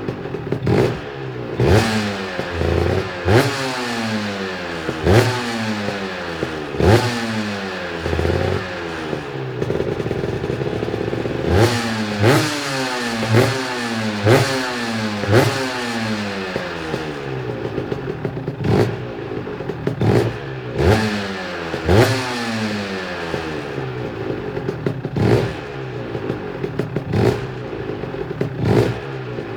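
Aprilia RS 125's two-stroke single-cylinder engine, just started, revved in repeated throttle blips. Each blip rises sharply and falls back to a rattly idle, about every second and a half, with a brief steady idle a third of the way through.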